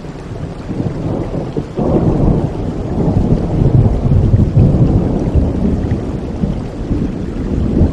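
Rolling thunder over steady rain: a deep rumble swells about two seconds in, is loudest in the middle, then slowly eases off.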